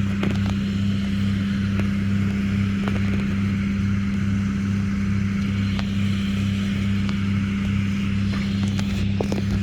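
An engine running steadily at constant speed: a low drone with a slow, even throb of about three beats a second.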